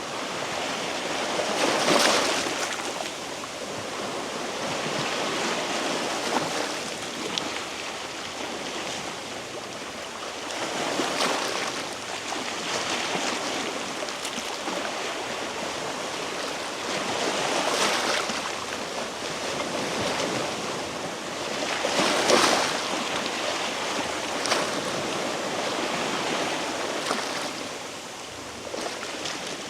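Sea waves washing against a rocky shore: a steady wash that swells and ebbs in repeated surges, the strongest about two seconds in and again a little past the middle.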